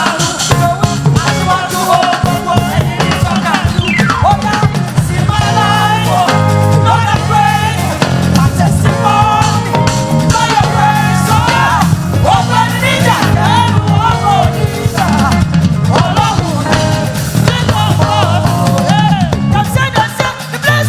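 Live gospel praise music: a band with drum kit and bass playing a steady beat under a wavering lead vocal line.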